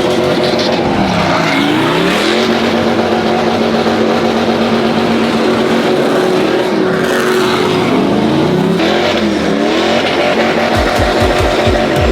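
Vehicle engine held at high revs during a burnout, with tires squealing and spinning. The revs dip and climb back about a second and a half in and twice more later on.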